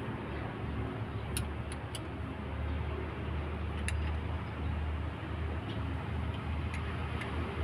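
A steady low mechanical rumble with a few light, sharp metallic clicks of hand tools on engine parts.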